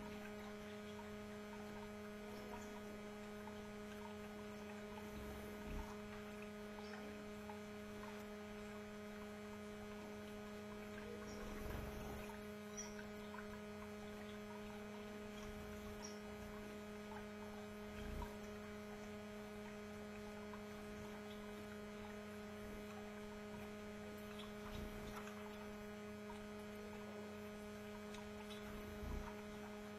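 Steady electrical mains hum with a stack of even overtones, with a few faint soft bumps now and then.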